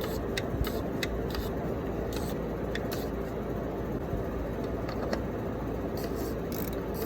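Steady low hum with a few scattered light clicks, as the oil filter housing cap is worked onto its threads by hand.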